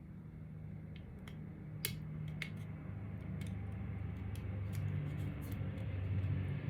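Scattered small clicks and taps of plastic and metal extruder parts being handled during disassembly, over a steady low hum.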